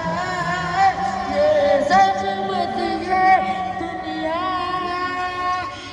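Devotional singing of a naat, with long held notes that slide and waver and more than one voice overlapping.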